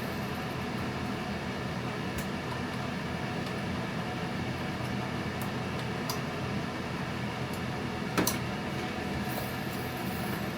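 Steady mechanical hum, with a few light clicks and one sharper click about eight seconds in.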